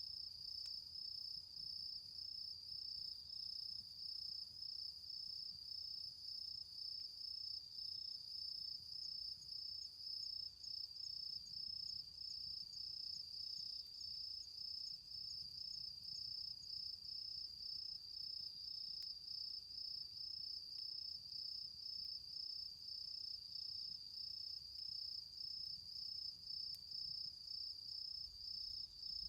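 Crickets chirping: a steady, high-pitched trill that pulses evenly and does not stop.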